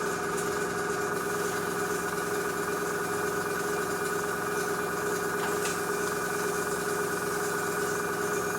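Small airbrush compressor running steadily, a constant motor hum over a light hiss of air.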